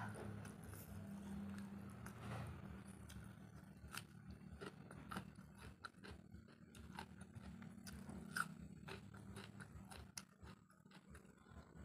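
A person chewing a mouthful of rice with crispy fried tempeh and tofu, with irregular small crunches and wet mouth sounds and one sharper crunch a little after eight seconds.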